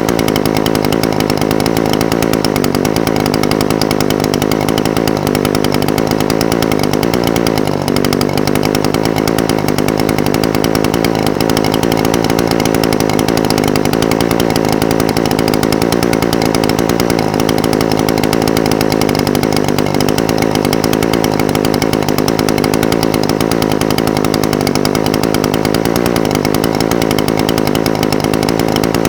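Echo SRM-420TES brush cutter's small two-stroke engine idling steadily, its pitch wavering slightly up and down.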